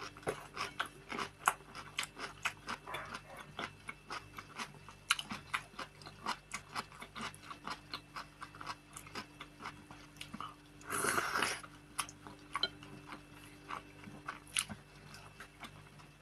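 Close-up eating sounds from a person chewing pelmeni in sour cream and a pickled cucumber: a steady run of wet mouth clicks and smacks, played up on purpose for the microphone. One louder, longer noisy sound comes about eleven seconds in.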